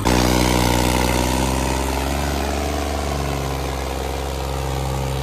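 Tractor diesel engine running steadily and loudly, its pitch dipping slightly about two seconds in and then recovering.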